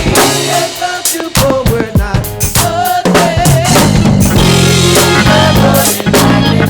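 Live gospel band playing: a drum kit with kick and snare drives the groove under bass and a wavering melody line. The low bass thins out for the first three seconds or so, leaving mostly drum hits, then the full band comes back in.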